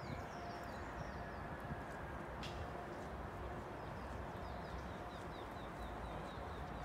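A small bird singing a quick series of short falling notes, strongest in the second half, over a low steady rumble.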